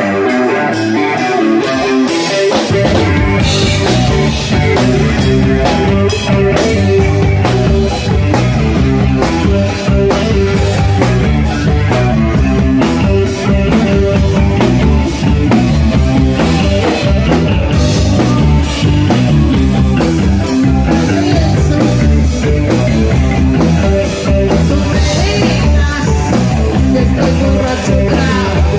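Rock band playing live: electric guitar alone at first, then drums and bass come in about two and a half seconds in and the full band plays on.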